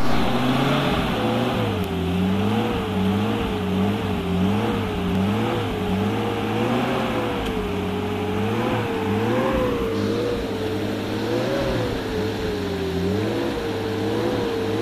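Off-road 4x4 engine running with its pitch wavering up and down every second or so, as the driver works the throttle in mud.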